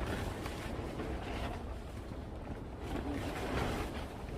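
Wind blowing and buffeting the microphone, a steady rumbling rush that swells in gusts.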